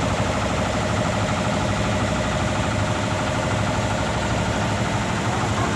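Wooden fishing boat's inboard diesel engine running steadily at low revs as the boat goes astern out of its berth.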